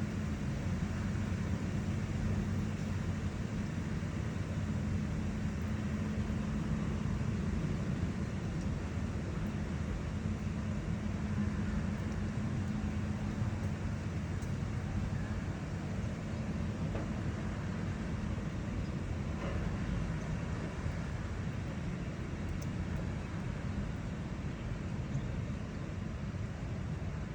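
A large engine running steadily, a constant low hum with an even hiss over it.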